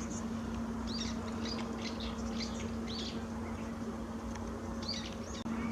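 Small birds calling with many short, repeated chirps, over a steady low hum and a background hiss.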